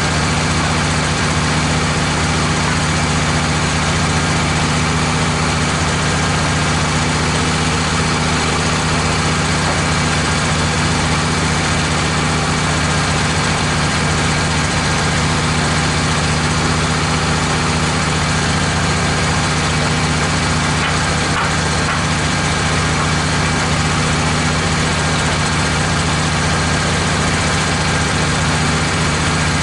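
Wood-Mizer LT15 portable bandsaw mill's gasoline engine running steadily at an even speed.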